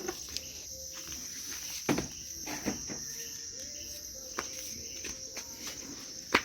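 Crickets trilling steadily at night, with a few sharp clicks, the loudest about two seconds in and another at the end.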